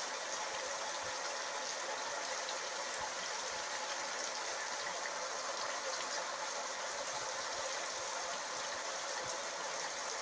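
Shower running: a steady hiss of water spray, unchanging throughout.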